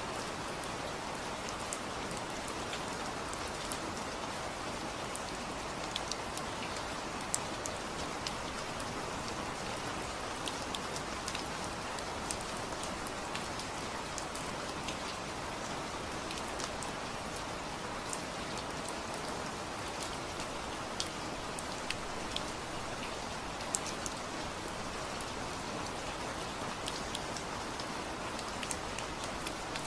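Steady rain falling, an even hiss with scattered sharper drop hits on a surface.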